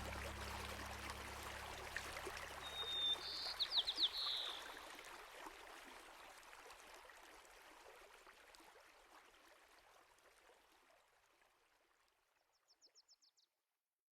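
Running stream with a bird calling over it: a short call of quick repeated notes about three to four seconds in, and a fainter quick series near the end, as the water sound fades out.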